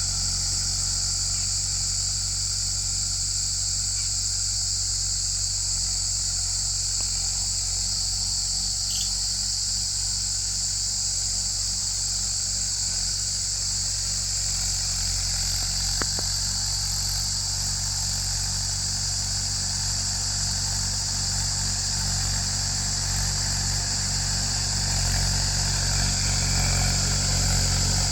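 Mahindra tractor's diesel engine running steadily at a low pitch, growing a little louder near the end, under a loud, even, high-pitched drone of insects such as crickets.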